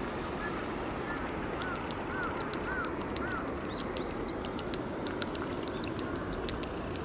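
A bird gives a run of about six short, arching chirps in quick succession in the first half, over a steady low rushing background, with scattered faint ticks throughout.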